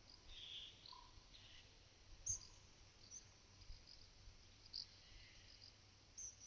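Near-silent pasture ambience: faint, scattered high chirps of small birds, a few soft rasping sounds, and one sharp tap a little over two seconds in.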